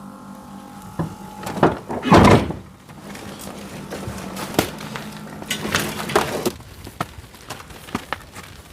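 A series of knocks and clunks, the loudest a heavy thump about two seconds in, followed by lighter clicks and rattles.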